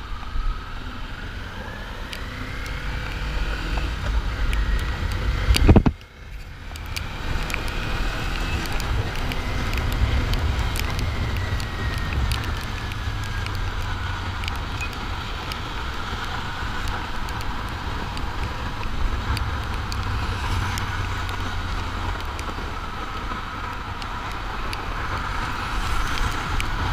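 Kawasaki Ninja 400's parallel-twin engine under way, its pitch rising over the first few seconds. About six seconds in there is a sharp loud peak, then a sudden brief dip, then the engine runs steadily under a constant rush of wind noise.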